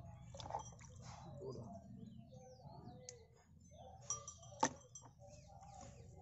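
Faint bird chirps, broken by two sharp clicks; the louder click comes about four and a half seconds in.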